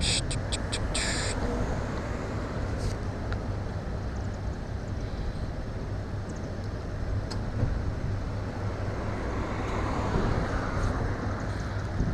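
Steady outdoor traffic and road noise with a low rumble. A quick run of short high-pitched sounds comes in the first second or so.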